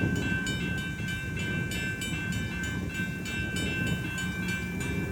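Grade-crossing bells ringing, with evenly repeated strikes about three times a second and a steady ringing tone, over the low rumble of a freight train's cars rolling slowly through the crossing.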